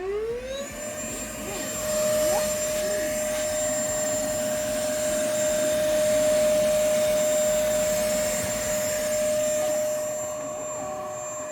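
Vacuum cleaner switched on: its motor whine rises in pitch over about the first second, then it runs steadily over a rushing airflow noise, cleaning out the fireplace.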